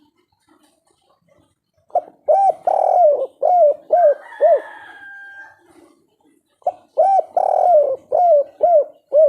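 Spotted dove (tekukur) singing the 'kuk 3' song, lively and full: two phrases of about six short coos each, the second note of each drawn out, the first starting about two seconds in and the second near the end.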